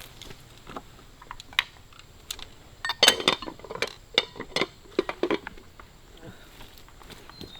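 Rice bowls and chopsticks clinking and clattering as dishes are gathered and stacked to clear up a meal, with scattered clinks and a busier flurry of clatter from about three seconds in.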